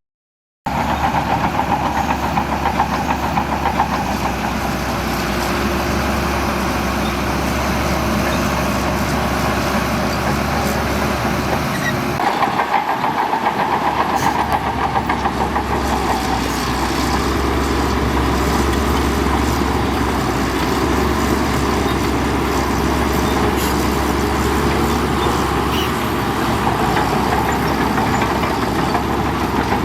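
Heavy construction machinery's diesel engine running steadily at a loud, even level, its note shifting a little about twelve seconds in.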